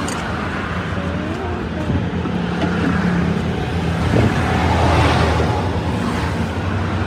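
Road traffic noise: vehicle engines running with a steady low hum.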